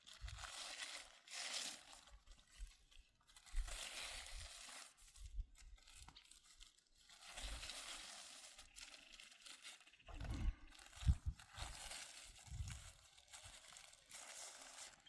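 Plastic sheet or bag being handled, crinkling and rustling in irregular bursts, with a few low thumps about ten seconds in.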